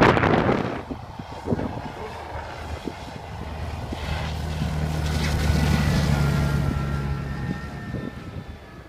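Wind buffeting the microphone for about the first second, then a heavy vehicle's engine droning, growing louder to a peak about six seconds in and fading again.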